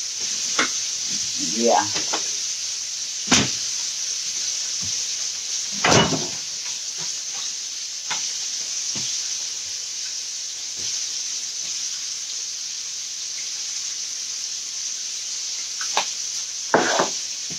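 Chicken frying in hot oil: a steady sizzle throughout, with a few short knocks and clicks from kitchen handling over it.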